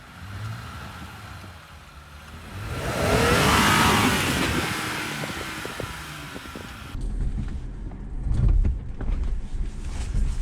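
Off-road 4x4's engine revving hard for a few seconds about a third of the way in, its pitch sweeping up and down. After an abrupt change in the sound, a low rumble with scattered knocks follows, loudest near the end.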